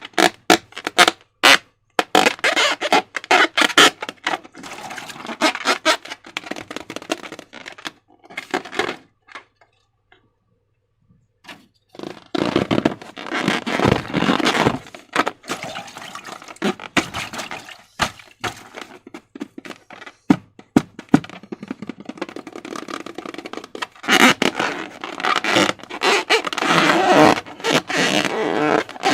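Slime being squeezed and worked by hand: a run of quick sticky clicks, then wet squelching and crackling. It stops for a couple of seconds near the middle, then starts again.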